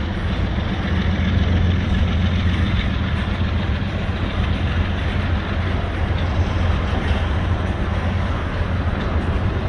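Norfolk Southern EMD diesel locomotive engine running with a steady, loud low drone.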